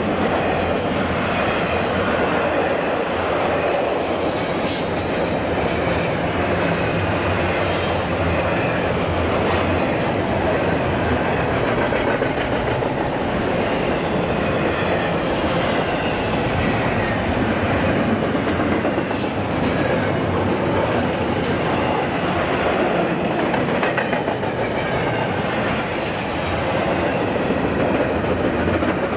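Train cars rolling steadily past on the rails, wheels running over the track, with a faint high wheel squeal now and then.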